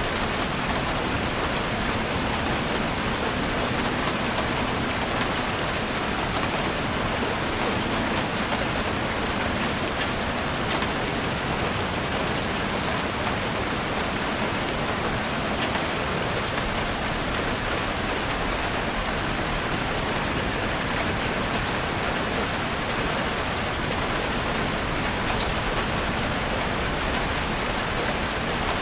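Heavy rain drumming steadily on a roof, a dense even hiss with scattered sharp drop impacts.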